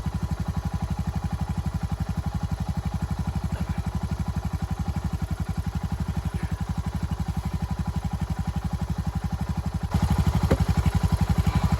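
Four-wheeler (ATV) engine idling steadily, a rapid even putter. It gets louder near the end.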